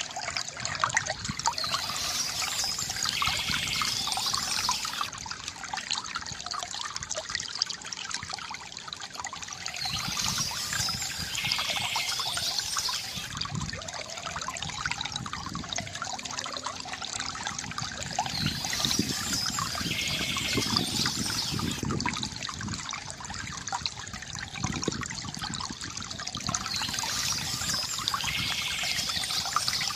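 Water trickling and splashing steadily from a bamboo fountain, with a brighter, higher stretch of sound returning about every eight seconds.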